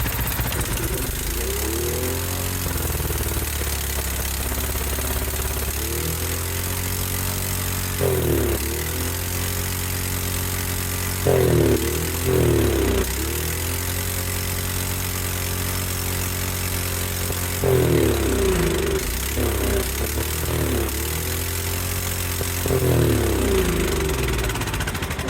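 Cub Cadet 528 snowblower's four-stroke engine running fast just after starting, its speed dipping and swinging back up several times. The owner calls it a ripper and thinks it may be over-revving, perhaps from a throttle linkage not connected right.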